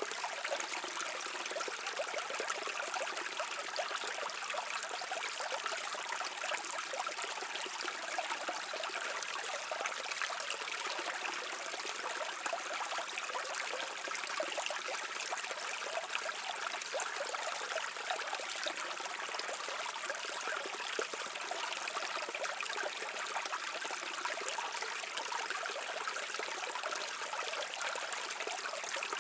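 A shallow stream flowing and trickling steadily over rocks, an even rushing of water that does not change.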